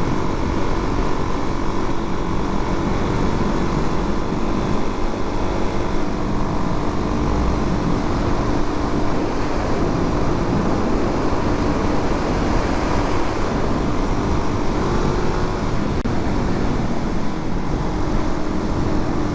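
Suzuki DRZ400's single-cylinder four-stroke engine running steadily while riding at speed, its pitch drifting slightly, mixed with a constant rush of wind noise.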